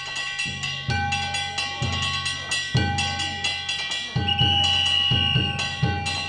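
Danjiri festival music: a taiko drum and ringing hand gongs struck in a steady rhythm. A high, steady whistle-like tone sounds for about a second midway.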